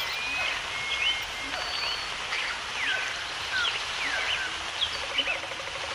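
Several birds calling with short chirps and sliding whistles over a steady hiss of outdoor ambience. A low, rapidly pulsed trill joins about five seconds in.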